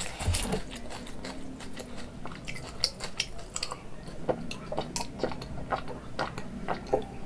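Noodles being chewed close to the microphone, with many small, irregular wet mouth clicks.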